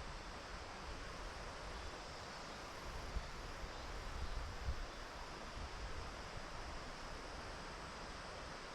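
Steady outdoor hiss, with wind buffeting the microphone in uneven low gusts.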